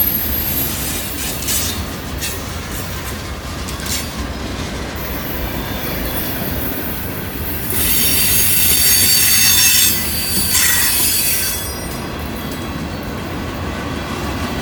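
Freight cars rolling past on a curve: steady rumble of steel wheels on rail, with a loud high-pitched wheel squeal of several tones from about eight to eleven seconds in, the wheel flanges grinding against the rail on the curve.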